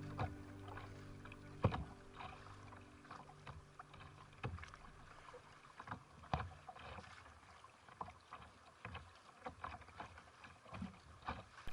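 The end of a song fades out near the start. After it come faint, irregular small clicks and knocks, like water lapping or splashing against a small boat.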